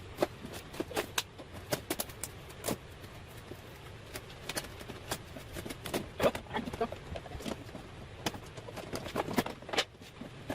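Irregular clicks and knocks of plastic parts being handled and fitted together while a portable air conditioner is assembled, some of them sharp and close together.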